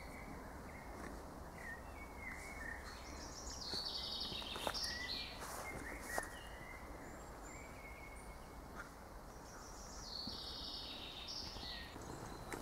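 Small birds chirping, with a trilled song phrase sung twice, once about three seconds in and again near the end, over a steady hiss of outdoor background noise.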